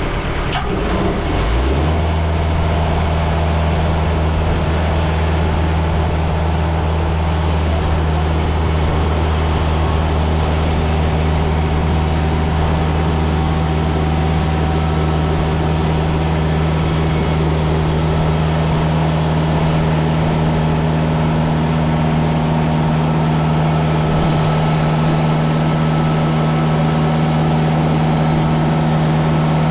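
Portable band sawmill's engine running at a steady speed, its note stepping up and settling about a second and a half in, then holding unchanged.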